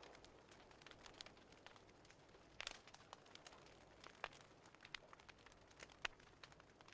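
Faint crackling of a wood fire: irregular small pops and snaps, with a few louder snaps.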